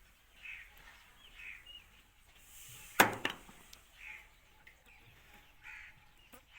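A parrot giving short, harsh, squawking calls roughly once a second. About three seconds in there is a sharp, loud click or knock, with a second, smaller one just after it.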